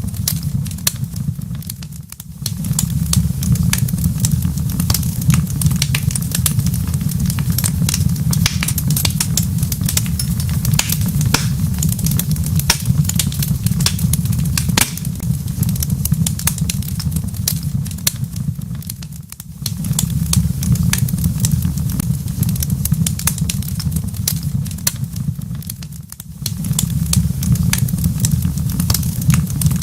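Wood fire crackling in a fireplace: a dense stream of small pops and snaps over a steady low rumble. The rumble drops away briefly three times, about two seconds in, near the middle and about three quarters through.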